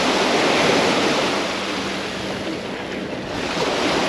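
Sea waves breaking and washing up a sandy beach, swelling loudest about half a second in, easing off, then building again near the end.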